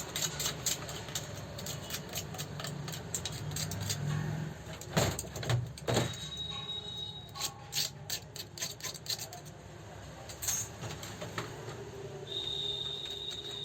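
Rapid small clicks and taps, with two louder knocks about five and six seconds in, over a low steady hum.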